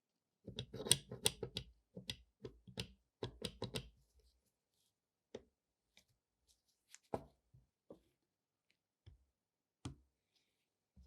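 Hard clicks and light knocks of small pistol parts being handled: a quick run of them for the first four seconds, then single clicks every second or so.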